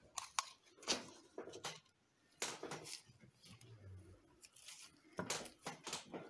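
Handling noises: scattered clicks, taps and short rustles of small objects being picked up and set down on a work table.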